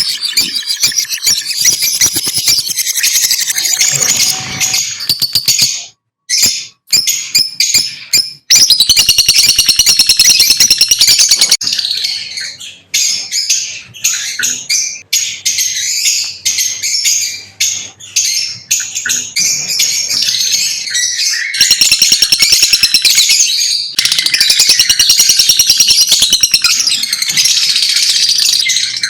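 Lovebirds chirping in rapid, dense, high-pitched chatter that breaks off briefly a few times.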